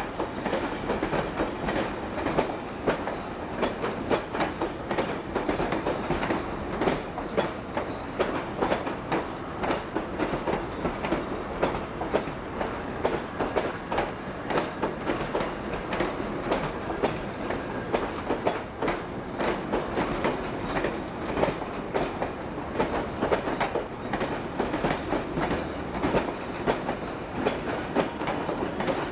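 Train running along the track, its wheels clattering steadily over rail joints in a dense run of clicks with a continuous rumble under them.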